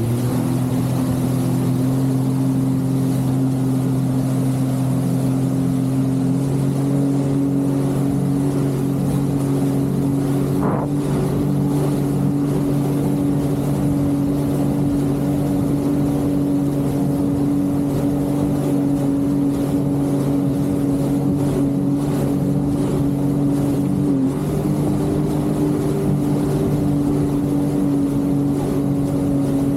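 Jet ski engine running at a steady cruising throttle, with water and wind noise. Its note eases down a little at the start, then holds even, with one brief dip about three-quarters of the way through.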